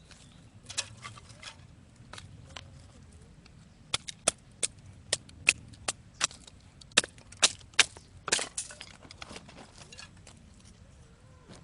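Sharp wooden knocks and cracks as firewood is split into thin kindling with a knife by batoning. The strikes come in a quick run of about two a second through the middle, followed by a short crackling split.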